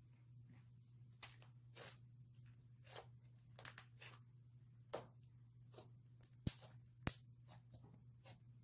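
Slime being stretched, folded and pressed by hand, making faint, irregular little pops and clicks. Two sharper clicks come about two-thirds of the way through.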